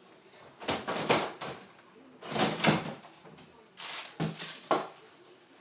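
Food containers and packaging being handled and moved about in a refrigerator as it is emptied, in three bursts of rustling and knocking.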